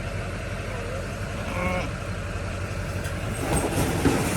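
Vehicle engine idling steadily, with a short sheep bleat about a second and a half in and a few knocks near the end.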